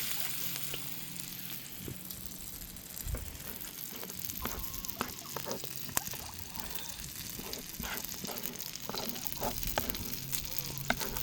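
Food frying over a campfire: a steady faint sizzle with scattered pops and crackles, more frequent in the second half.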